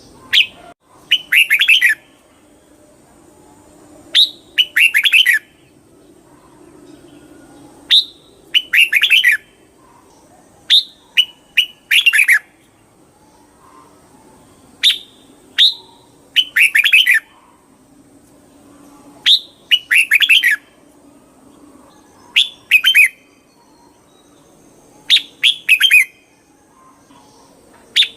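Red-whiskered bulbul singing: a short, bright, repeated song phrase about every three to four seconds. Each phrase is a sharp opening note followed by a quick run of warbled notes.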